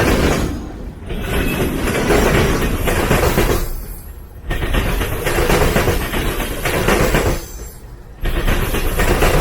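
Freight train passing close by: a loud, steady rumble and rattle of wheels on rail, dropping away sharply about a second in, again about four seconds in, and near the end before coming straight back.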